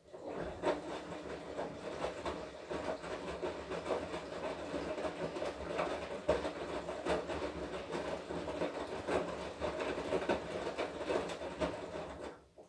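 Washing machine in its wash cycle: the motor turns the drum with a steady hum while the laundry tumbles with irregular knocks, then stops suddenly near the end as the drum pauses.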